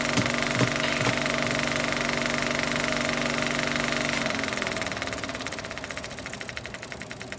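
An engine running steadily with a regular knock about twice a second through the first second; about four seconds in its hum stops and the sound fades to a fast, fainter ticking.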